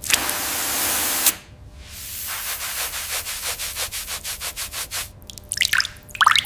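Abrasive cleaning on a corroded bronze dagger. A steady hiss lasts for about the first second and stops sharply, then quick rhythmic scrubbing strokes follow at about five a second, with a few sharper scrapes near the end.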